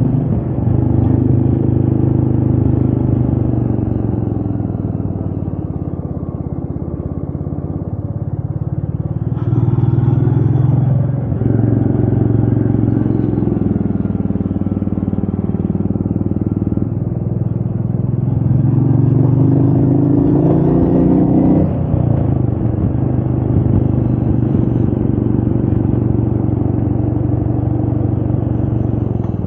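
Royal Enfield Meteor 350's single-cylinder engine running under load, its revs climbing and dropping several times as the rider works the throttle and gears, with wind noise over the microphone.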